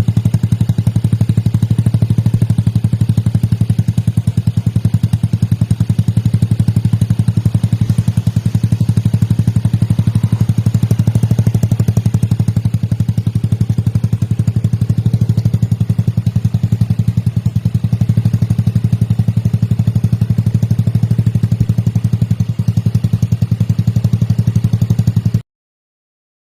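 Yamaha Fino scooter's single-cylinder engine running steadily with a fast, even beat. The sound cuts off abruptly near the end.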